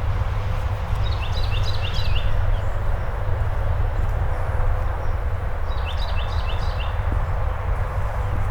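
A songbird sings a short phrase of about five quick repeated notes, twice, about five seconds apart, over a steady low rumble.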